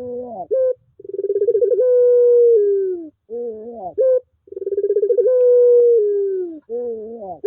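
Puter pelung (ringed turtle dove) cooing: two long drawn-out coos, each opening with a quick trilled start, holding a steady note and sliding down at the end, then a few shorter wavering notes. It is a lure call used to coax a puter that has gone quiet into cooing.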